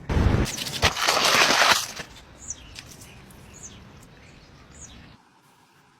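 A loud rushing noise lasting about two seconds, then small birds chirping three times over a quieter background before the sound cuts off sharply.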